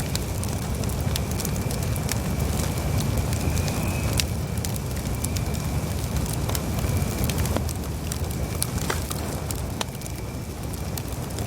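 Campfire burning steadily: a low roar of flames with frequent sharp crackles and pops from the wood. A faint thin high whistle comes and goes.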